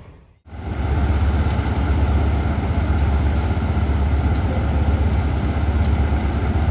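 A diesel train's engine running steadily close by, a strong low hum under broad noise. It starts after a sudden cut about half a second in.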